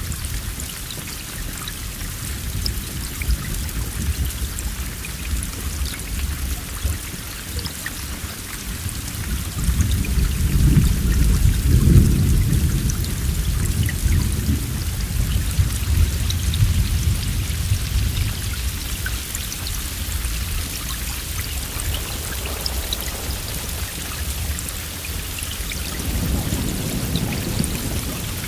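Steady heavy rain with a deep rumble of thunder that swells in about a third of the way through, peaks and slowly rolls away. A fainter rumble comes near the end.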